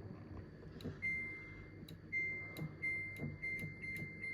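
Samsung washing machine control panel beeping as its buttons are pressed: a run of high beeps starting about a second in, the first long and the rest shorter, with light clicks of the buttons between them.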